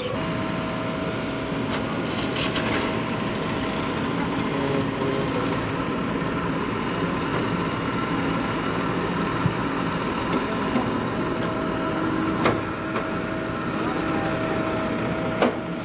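Diesel engine of a JCB backhoe loader running steadily while it works to pull a stuck tractor out, with a few sharp knocks about two, twelve and fifteen seconds in.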